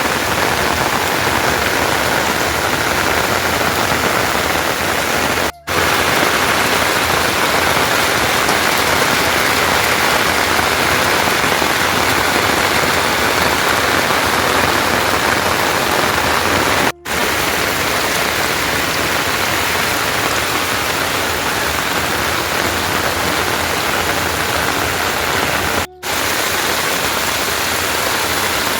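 Heavy rain falling: a loud, steady hiss of rain. It breaks off for a split second three times.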